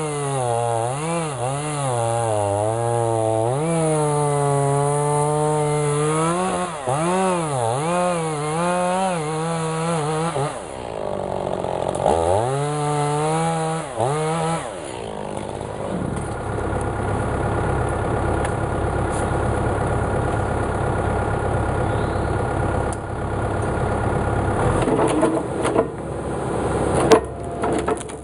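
Two-stroke chainsaw running at high revs, its pitch repeatedly dipping and recovering as it bogs in the cut and comes free, with a short break about ten seconds in. For the second half the sound turns rougher and noisier, with a few sharp knocks near the end.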